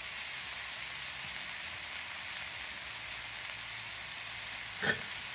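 Vegetables frying in butter in a pan, a steady sizzle, with a single short knock near the end.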